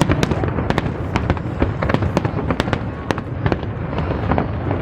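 Aerial fireworks show bursting in quick, irregular succession: sharp cracks about three times a second over a continuous low rumble of distant detonations.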